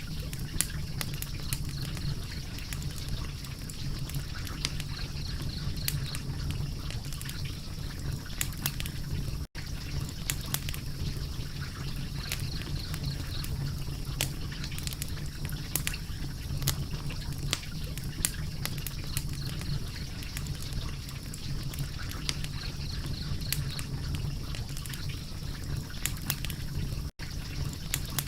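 Wood fire crackling: a steady hiss full of frequent sharp pops and snaps over a low, steady rumble. The sound cuts out for an instant twice.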